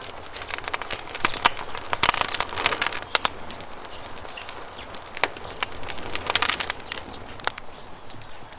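Wood campfire crackling, with sharp pops and snaps coming in clusters, over a steady rush of flowing river water.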